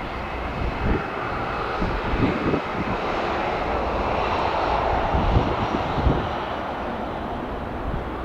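Jet engines of a departing Boeing 737-700 (CFM56 turbofans), a continuous rush of engine noise that swells to its loudest around the middle and eases slightly toward the end, with occasional low thumps.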